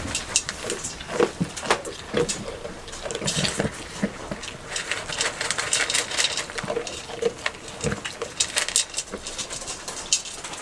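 Rain pattering and dripping, with many irregular taps and a few soft, short animal sounds from a goat.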